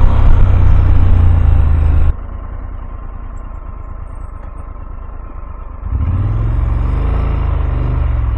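Motorcycle engine and riding noise with a steady low rumble. It drops suddenly about two seconds in, then comes back about six seconds in with the engine note wavering up and down in pitch.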